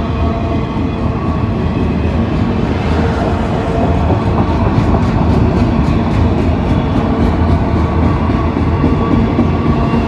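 Train running on the rails: a loud, steady rumble with a few steady tones, and from about halfway in a run of quick, regular clicks, about four a second, that fade out near the end.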